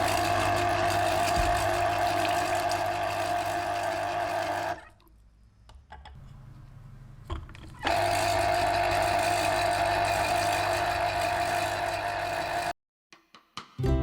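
A small electric motor, such as a kitchen appliance's, running steadily with a whine. It runs for about five seconds, stops for about three, runs again for about five, and cuts off suddenly near the end.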